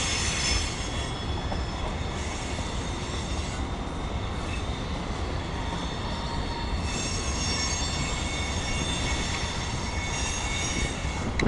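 Freight cars of a CSX mixed freight train rolling past with a steady low rumble, and high-pitched wheel squeal that swells and fades several times.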